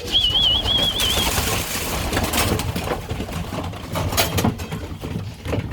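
A short warbling whistle, then pigeon wing flaps and scattered knocks and rattles as a returning racing pigeon comes down to the loft.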